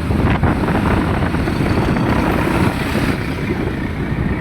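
Steady low rumble of road vehicle engines, with wind buffeting the microphone.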